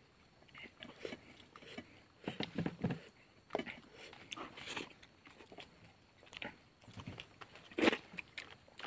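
A man chewing a mouthful of rice and curried chicken intestine with his mouth, wet smacking sounds coming in short irregular bursts, with one louder smack near the end.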